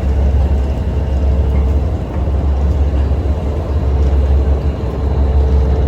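Steady low drone of the Catalina Express ferry's engines running while the boat sits at the dock.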